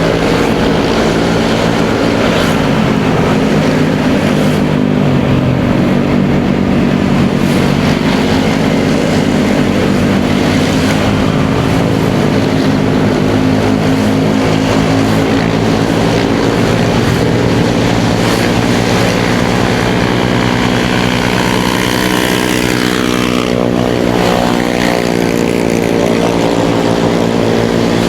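Motorcycle engine running steadily under way, heard from the rider's seat with road and wind noise. About three quarters of the way through, the engine note slides in pitch.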